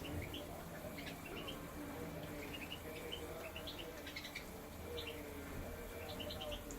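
Small finches in an aviary, a mix of goldfinches, siskins, serins and linnets, giving short high chirps and twitters in scattered quick runs.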